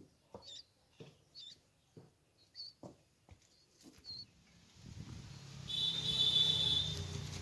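A baby red-vented bulbul chirping: short, high single chirps about once a second, with soft taps between them. From about five seconds in, a louder rushing noise with a low hum and a steady high whine rises over it.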